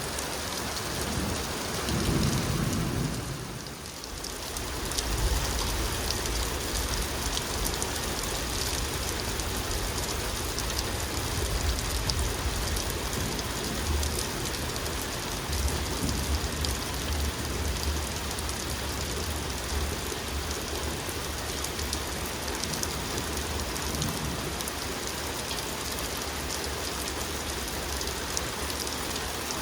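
Heavy thunderstorm rain pouring down steadily, with a low rumble of thunder underneath about two seconds in and again through most of the rest.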